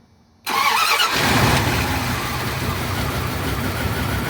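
Dodge Ram 1500's 5.2-litre V8 starting at once: near silence, then about half a second in it cranks for a moment, catches and settles into a steady idle. It now starts and runs smoothly with a new distributor cap, the worn, burned cap having been the cause of the crank-no-start.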